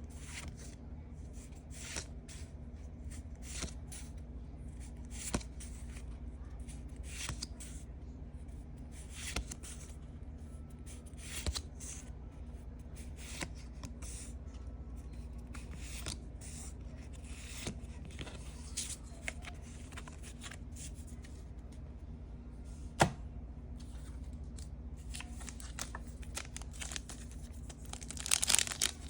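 Hands handling product packaging: scattered light clicks, scrapes and rustles over a steady low hum, with louder crinkling building near the end.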